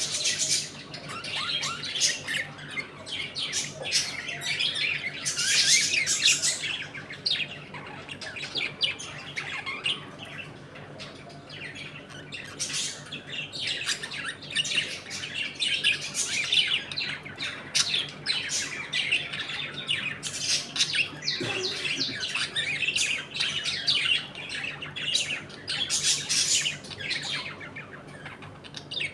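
A colony of budgerigars chattering and chirping, many birds calling over one another without a break, with sharper squawks mixed in.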